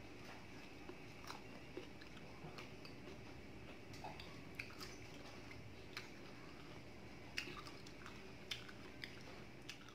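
Quiet chewing of ripe mango slices, with soft mouth clicks at irregular intervals over a faint steady background hiss.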